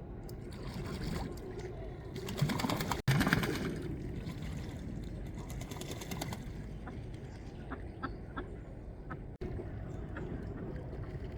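Ducks bathing in the water: steady splashing, with a loud flurry of rapid splashes about two and a half seconds in, then softer dabbling and a few small drips.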